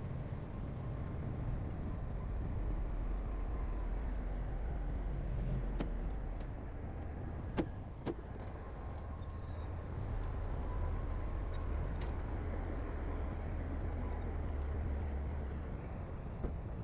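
Heavy earthmoving machinery's diesel engine running with a steady low rumble, with two sharp metallic knocks about half a second apart near the middle.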